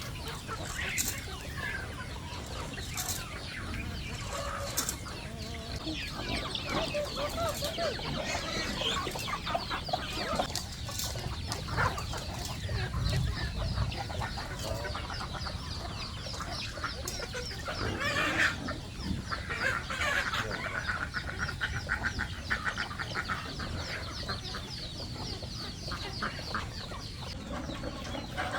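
Chickens clucking, with a steady chatter of many small high chirps through most of the stretch.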